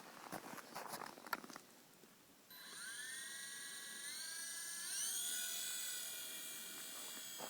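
Hobbyking FP100 micro RC helicopter's electric motors starting suddenly with a high whine, which rises in pitch twice as the rotor spools up and then holds steady. Before that there are a few short clicks and rustles.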